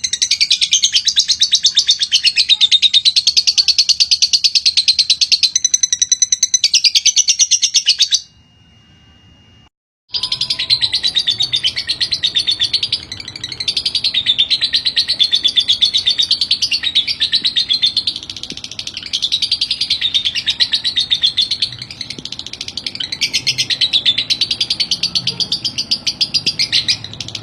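Lovebird in full song: a long, very fast chattering trill of high chirps. It breaks off about eight seconds in, goes quiet for about two seconds, then resumes and carries on.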